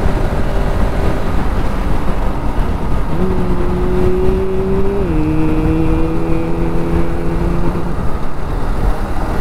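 Bajaj Pulsar RS200's single-cylinder engine running at cruising speed under heavy wind rush on the helmet microphone. A steady engine hum comes up about three seconds in and drops a step in pitch about five seconds in as the throttle eases.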